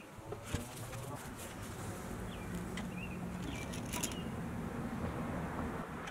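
Outdoor ambience with a few short bird chirps and scattered faint clicks, over a steady low hum that comes in about two seconds in.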